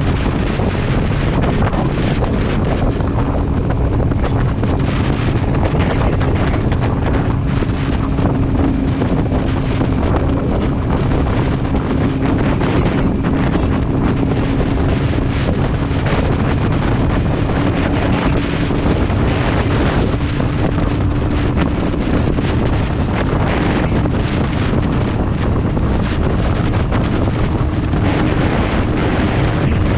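Wind buffeting the microphone on a moving motorcycle, with the engine's steady drone underneath, its pitch creeping slowly up.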